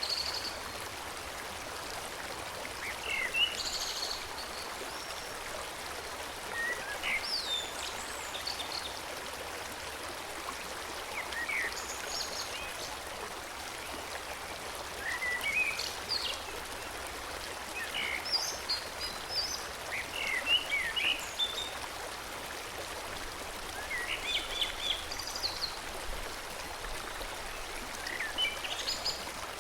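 A steady rush of flowing stream water, with small songbirds chirping and singing in short phrases every second or two over it.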